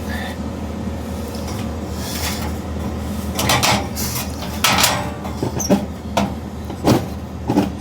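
Pots and pans clattering in a small kitchen: a string of separate knocks and clanks as cookware is handled and set down, over a steady low hum.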